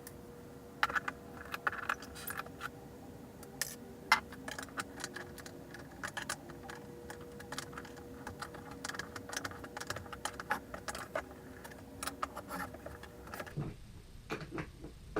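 Skate tool and metal truck hardware clinking and clicking in quick, irregular taps while a skateboard's old trucks and wheels are taken apart.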